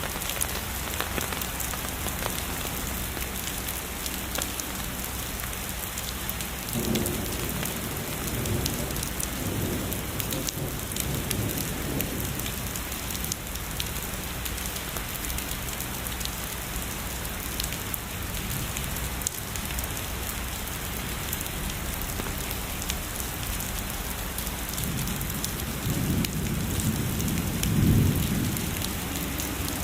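Steady heavy rainfall with dense drop patter, and distant thunder rumbling low twice, briefly at about seven to twelve seconds in and more strongly near the end.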